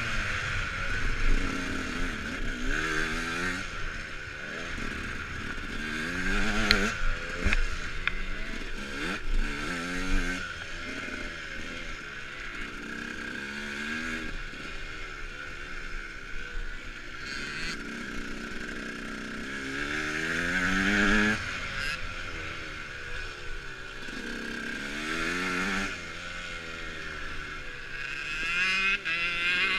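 KTM Freeride dirt bike being ridden off-road, its motor pitch rising and falling again and again with the throttle. There are a few sharp knocks about seven seconds in.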